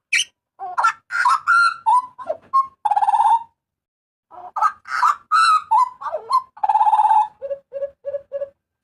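Butcherbird calling loudly: a quick run of varied whistled and harsh notes, including two longer grating calls, a short pause about halfway, then a run of five short, even, low notes near the end.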